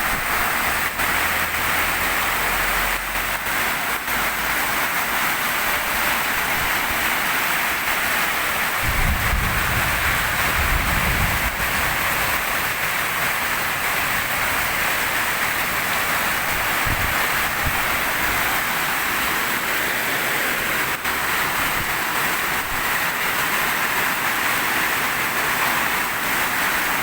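Heavy rain pouring down in a steady, even hiss, driven by strong wind that buffets the microphone in low rumbling gusts, most strongly about a third of the way in.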